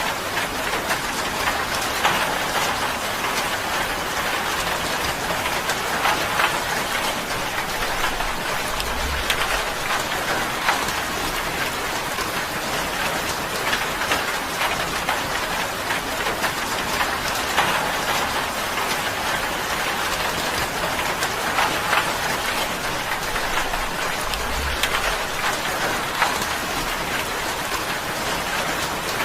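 Steady rain drumming on a tin roof, a dense even patter of countless drops.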